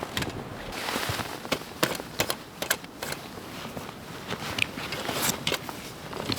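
Snow crunching and twigs snapping: irregular sharp snaps over a soft rustling haze.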